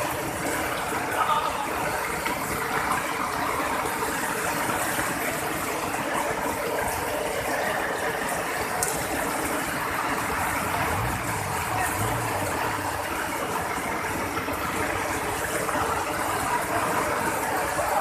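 Steady rush of water from heavy rain and flowing floodwater, an even noise that holds level throughout.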